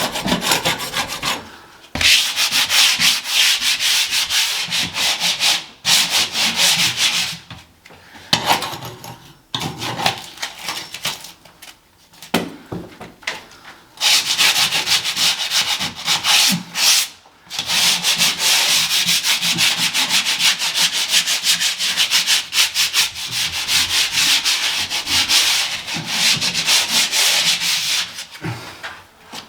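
Sandpaper rubbed by hand over a painted ceiling in quick back-and-forth strokes, in runs of several seconds broken by short pauses, taking off loose, flaking paint to prepare the surface for filling.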